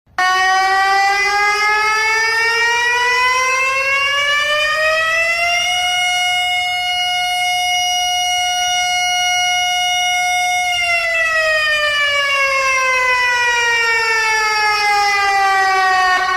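A siren tone that rises steadily in pitch for about five seconds, holds one pitch for about five seconds, then falls back to its starting pitch and cuts off.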